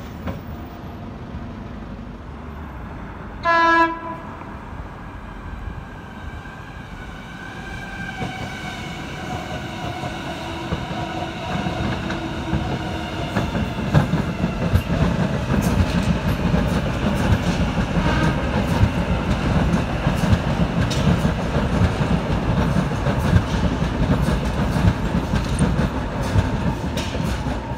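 Sydney double-deck electric suburban trains passing close below. A short horn blast sounds about three and a half seconds in, then a rising whine of traction motors, and a growing rumble with wheels clicking over rail joints and points.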